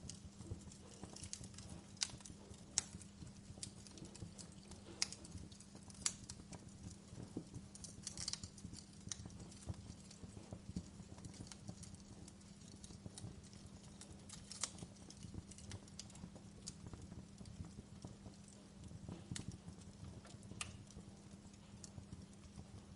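Wood fire crackling: irregular sharp pops and snaps, a few louder ones among many small ticks, over a faint steady low hum.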